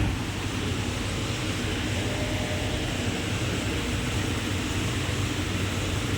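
Steady industrial hum from an electric heat-treatment furnace installation: a constant low drone with an even rushing hiss over it.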